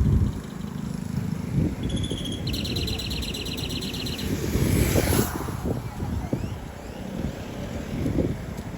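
Outdoor rumble of wind or distant traffic, with a rapid high chirping trill lasting under two seconds, starting about two and a half seconds in, and a brief rushing swish around five seconds in.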